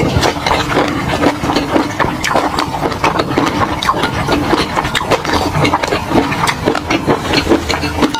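Close-miked eating sounds: wet chewing and mouth smacks, a dense, irregular run of small clicks, several a second, as food in peanut sauce is eaten.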